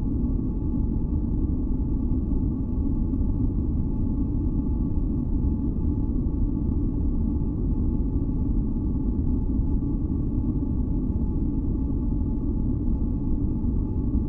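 Steady, deep synthesized noise, mostly a low rumble, with faint high drone tones held over it, unchanging throughout.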